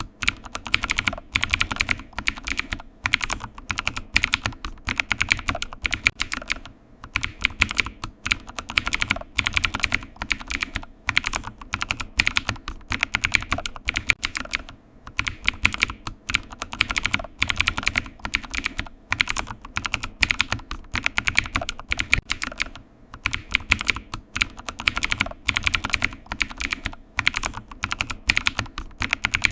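Computer keyboard typing: a steady run of rapid key clicks with short pauses every few seconds.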